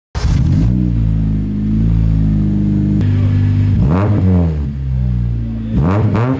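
2008 Acura TSX's four-cylinder engine firing up for the first time through a new custom 3-inch single exhaust with a Weapon R header and K-Tuned turndown muffler, settling into a steady idle. It is revved briefly about four seconds in and blipped several times in quick succession near the end.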